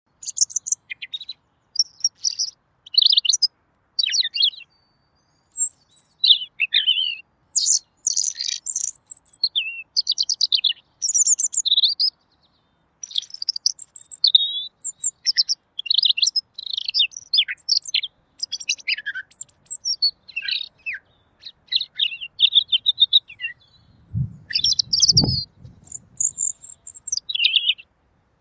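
Red-billed leiothrix (Pekin robin) singing: a clear, rapid run of varied whistled and warbled phrases with only brief pauses. A short low thud sounds near the end.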